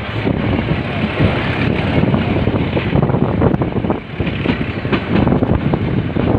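Passenger train running: a loud, steady rumble from the carriage with frequent rattles and knocks, and wind rushing over the microphone.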